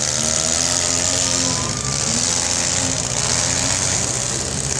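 Demolition derby cars' engines running and revving, several engine notes rising and falling at once over a steady hiss.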